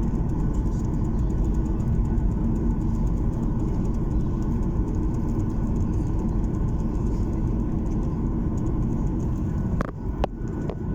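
Airliner engine and airflow noise heard inside the passenger cabin during takeoff: a steady, loud, low rumble. A few sharp clicks near the end.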